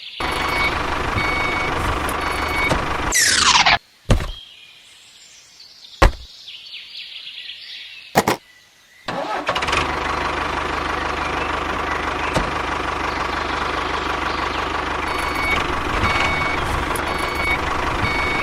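A small motor running steadily. About three seconds in, a quick falling whoosh cuts it off. A quieter stretch follows with a few sharp knocks, and then the motor runs steadily again.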